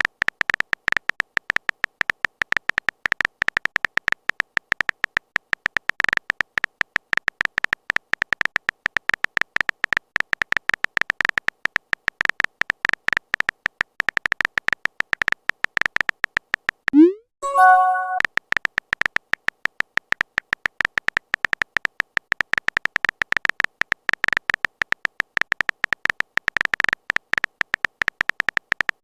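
Rapid, continuous clicking of a phone-keyboard typing sound effect, with a short rising chime like a message notification about seventeen seconds in.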